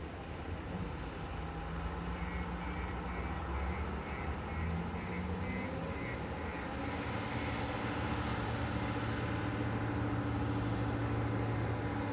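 Heavy diesel engines of a backhoe loader and tipper truck running steadily, one rising in pitch about six seconds in as it works harder. A short run of high, evenly spaced beeps sounds over it in the first half.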